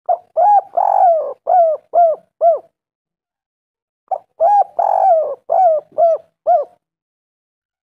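Spotted dove (tekukur) cooing: two phrases of about six notes each, a short note followed by a run of coos, with a pause between phrases. It is the gacor advertising call used as a lure to draw other doves.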